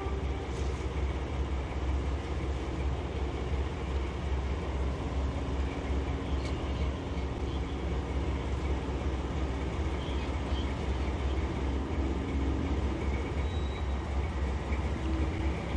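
Diesel locomotive idling at a standstill: a steady, even low rumble.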